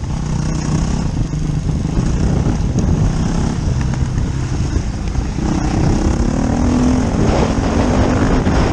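Dirt bike engine running and revving as the rider rides the motocross track, its note shifting and climbing higher about halfway through.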